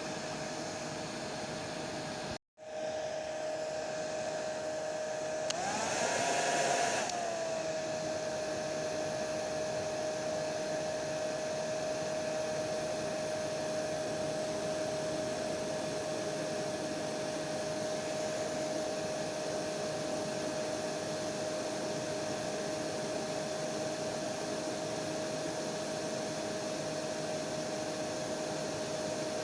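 Hair dryer running steadily: a rushing blow of air with a steady whine. It cuts out for a split second about two and a half seconds in, and around six seconds it briefly gets louder with its whine rising in pitch before settling back to its steady run.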